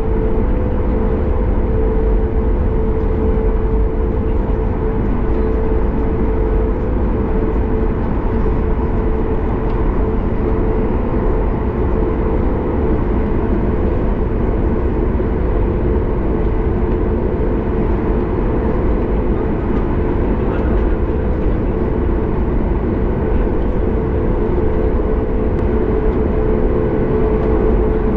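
Cabin noise of a Boeing 737 MAX 8 taxiing: its CFM LEAP-1B turbofans run at low taxi power, a steady low rumble with a constant mid-pitched hum.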